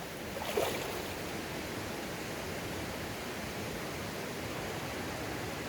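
Mountain stream water running steadily, with a short, louder sound about half a second in.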